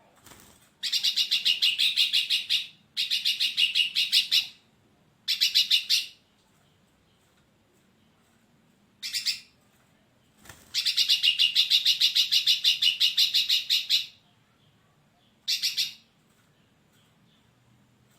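Hairy-backed bulbul calling: bursts of rapid, evenly repeated high chattering notes. There are six phrases, from a fraction of a second to about three seconds long, separated by short pauses.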